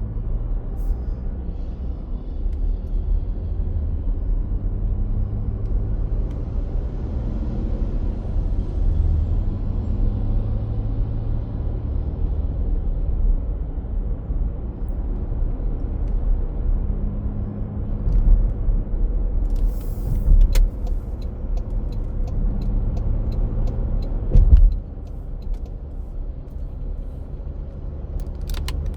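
A road vehicle running with a steady low rumble. Near the end comes a series of short clicks, then a loud knock, after which the sound is quieter.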